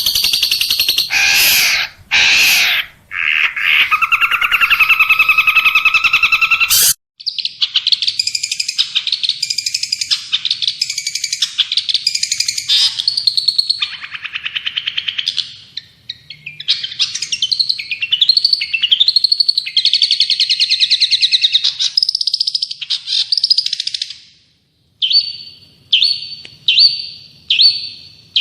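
Recorded songbird song spliced together: a dense passage that cuts off abruptly about seven seconds in, then a long, fast trilling and warbling song, and after a short pause a run of short repeated chirps, a bit more than one a second.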